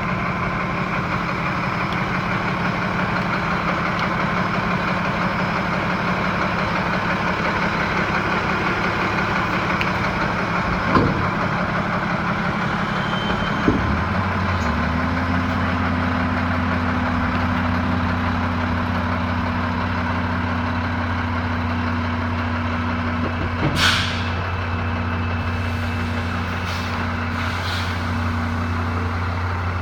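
Diesel engine of a Freightliner M2 106 dump truck running at idle; after two short knocks about halfway through, its note changes to a steadier, stronger hum. A short sharp burst of air hiss comes near the end.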